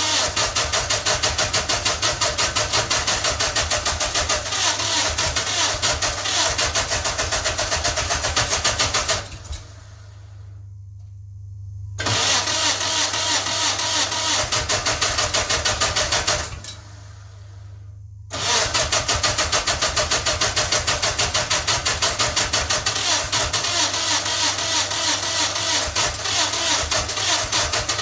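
Onan NHC twin-cylinder engine being cranked over by its electric starter in the extreme cold, in three bouts of rhythmic chugging at about four pulses a second with two short pauses, trying but not settling into a run. Cylinder one has almost no compression because its intake valve seat is falling out of the block.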